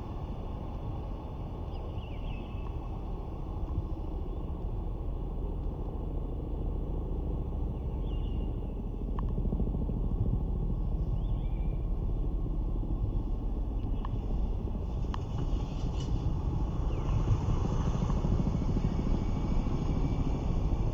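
Steady low rumble of outdoor background noise, growing louder in the second half, with a few faint short high chirps.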